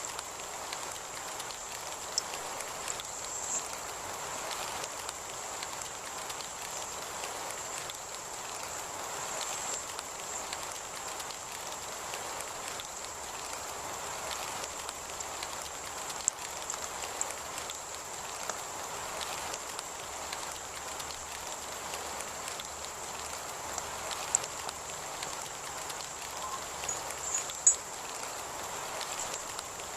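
Steady heavy rain falling, with a few sharp drop ticks standing out, the loudest near the end.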